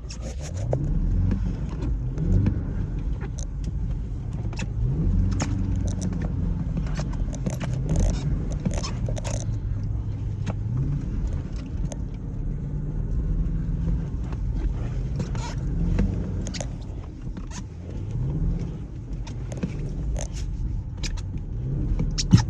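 BMW X5 xDrive50i's twin-turbo V8 revving up and easing off again and again as the SUV spins donuts in snow, with scattered clicks and knocks throughout.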